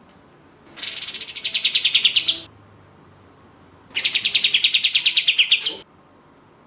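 Kapas tembak singing two long, rapid trills of about two seconds each, a second or so apart: fast runs of about ten repeated notes a second, starting high and dropping lower partway through each run.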